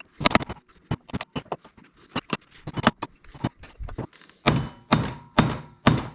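Hammer blows on a chisel splitting a seized, rounded-off steel nut: a run of sharp metal-on-metal strikes, about two to three a second, the heaviest four coming near the end.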